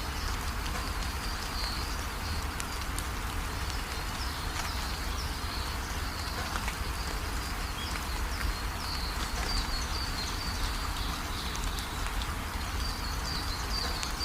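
Steady rain falling, with a deep low rumble under it and a high, rapidly repeated chirping that carries on throughout.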